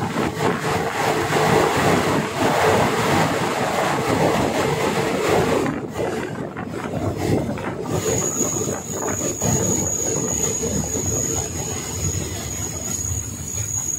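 Container freight train passing close alongside: a continuous rumble and clatter of its flat wagons' wheels on the rails, with a steady high-pitched squeal coming in about eight seconds in.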